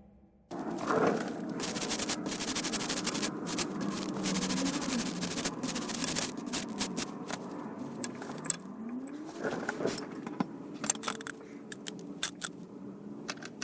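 Metal clinking, rattling and scraping of tools and parts, with many sharp clicks and a short rising whine about eight seconds in.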